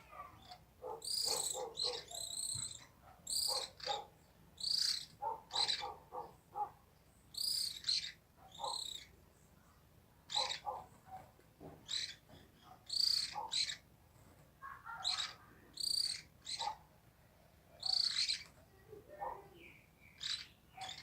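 Backyard birds calling: short, high chirping calls repeated every second or two, mixed with quicker runs of lower notes.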